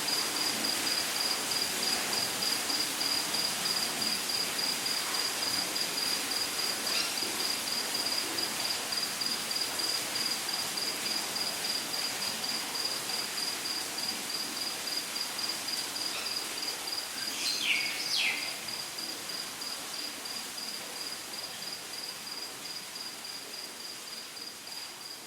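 Rainforest ambience: an insect trills steadily with a high, rapidly pulsing note over a soft even hiss. About seventeen seconds in, a bird gives two quick falling whistles, and the whole scene then slowly fades down.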